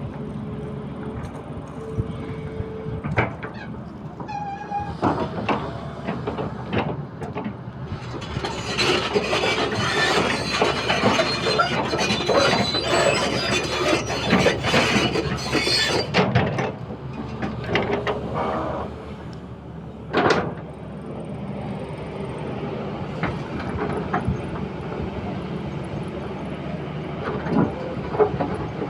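Excavator at work, its engine running as a steady drone, with a stretch of loud clattering and scraping of metal about eight to sixteen seconds in and a single sharp knock about twenty seconds in.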